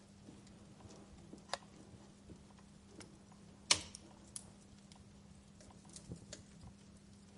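Wood fire crackling in a fireplace: scattered sharp pops and snaps at irregular intervals, the loudest about halfway through, over a faint steady low hum.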